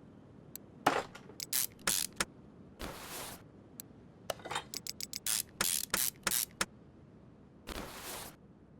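Workshop handling noises: a scattered run of sharp clicks, knocks and short scrapes from parts or tools being handled, with two short hissing bursts, one about three seconds in and one near the end.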